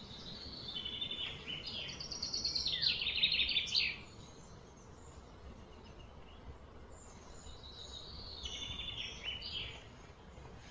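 A songbird singing two phrases of quick, repeated trilling notes: the louder one about half a second in, lasting some three seconds, and a second one about seven seconds in. Faint steady outdoor background noise lies beneath.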